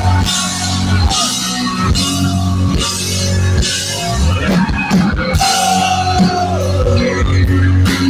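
Post-hardcore rock band playing loud and live: drum kit with a cymbal crash about once a second over held bass notes and distorted guitars. A guitar line slides down in pitch about five and a half seconds in.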